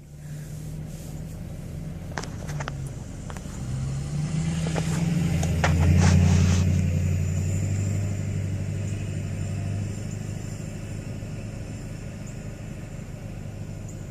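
Truck engine running, speeding up about four seconds in to its loudest about six seconds in, then easing back to a steady run. A few sharp clicks or knocks near the middle.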